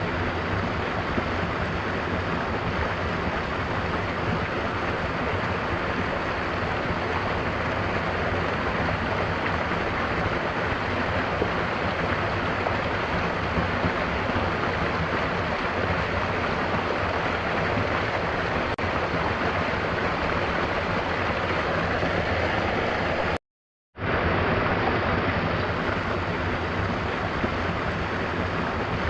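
Mountain waterfall: a steady, even rush of falling water. It cuts out to silence for about half a second near the end, then comes straight back.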